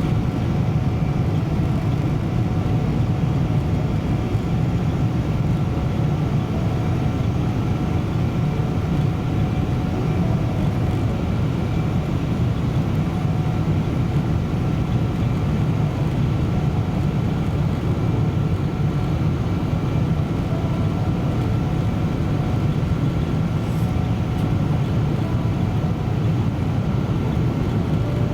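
Steady airliner cabin drone inside a Boeing 777-200: engine and airflow noise, a low, even rumble with a few faint steady tones above it.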